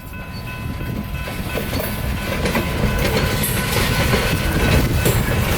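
Short freight train pushed in reverse by an EMD SW1200 diesel switcher, rolling closer: wheels clacking over rail joints over a low rumble, growing steadily louder.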